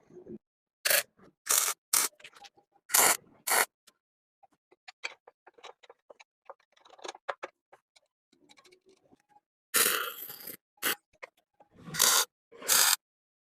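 A series of short, loud scraping strokes, a handful near the start and again near the end, with quieter scattered clicks and taps in between, typical of hand work on a part.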